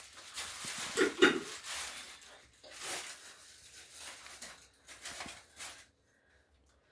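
Irregular scuffing and rubbing noises, with a louder knock about a second in.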